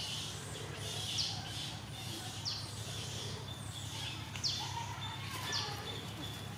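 A wild bird calling over and over: short, high notes that fall in pitch, about one a second, over a steady low hum.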